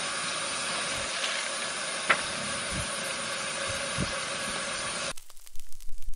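Steady hissing noise with a couple of faint knocks, cut off abruptly about five seconds in as music begins.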